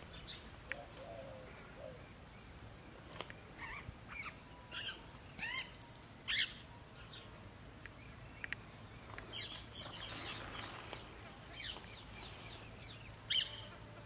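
Wild birds chirping: short, scattered high chirps and trills, loudest about six seconds in and again near the end.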